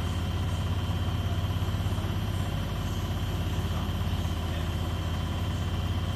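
Beko washing machine running mid-cycle: a steady low motor hum with a fast, even pulsing.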